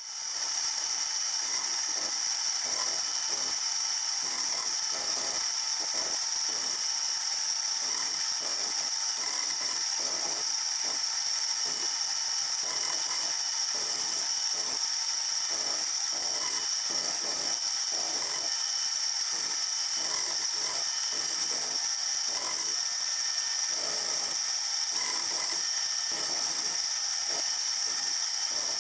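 Small metalworking machine tool running and cutting metal: a steady high whine with quick, irregular clicking and chatter underneath.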